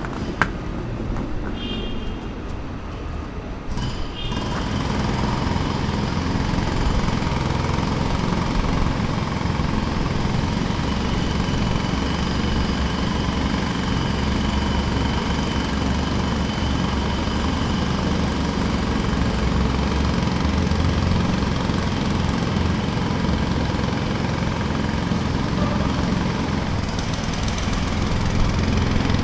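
Jackhammer hammering continuously at a construction site. It sets in about four seconds in after a quieter stretch, during which a few short high chirps are heard.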